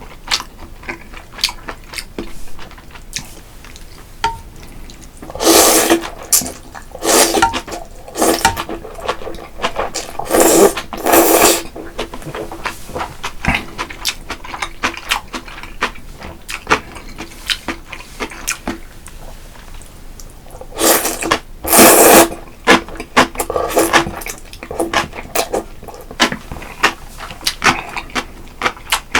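A man slurping jjamppong, a spicy mussel noodle soup. He draws in several loud sucks of about half a second each, in two runs, the first a few seconds in and the second about two-thirds through. Short chewing and mouth clicks come in between.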